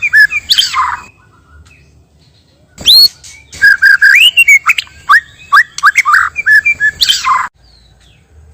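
White-rumped shama (murai batu) singing: quick phrases of clear whistles and chirps. A short run opens, then after a pause of about two seconds a rising whistle leads into a longer run of notes lasting about four seconds.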